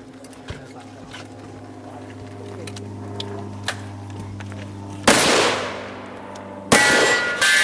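Two loud gunshots about a second and a half apart, each trailing off over about a second, with a steel target ringing after the second shot.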